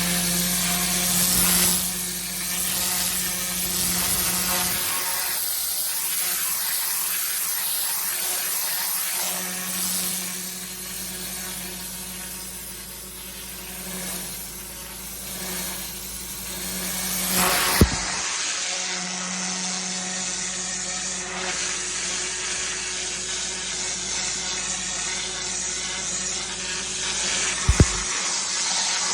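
Pressure washer running, its high-pressure water jet hissing against block paving over a steady machine hum that rises and falls. Two sharp knocks, one a little past halfway and one near the end.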